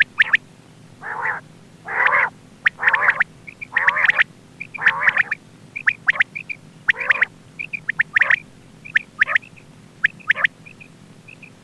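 Quail calling over and over: quick, sharp call notes mixed with harsher, raspy calls about half a second long that come roughly once a second.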